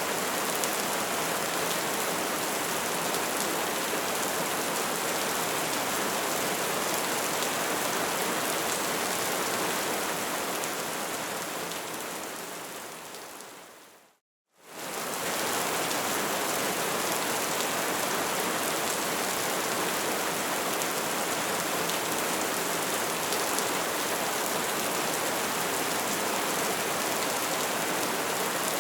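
Wood fire crackling and burning steadily in a dense, even hiss of pops. About halfway through it fades out to a brief moment of silence, then fades back in.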